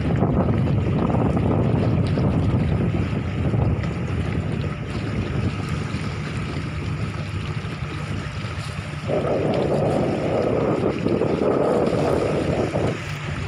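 Wind buffeting the microphone and water around a small fishing boat at sea, over a steady low hum. A louder rush of noise comes in from about nine seconds in and lasts about four seconds.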